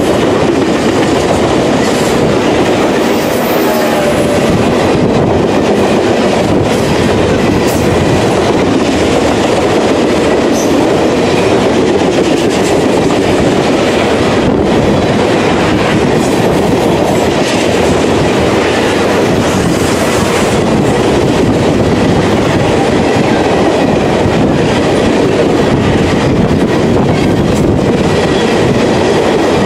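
Tank cars of a freight train rolling past close by, a steady loud rumble with the clatter of wheels over the rails.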